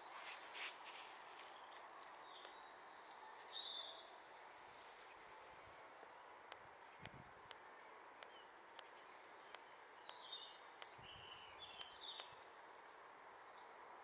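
Faint chirps and twitters of small birds, with several sharp ticks in the second half, over a steady soft outdoor hiss.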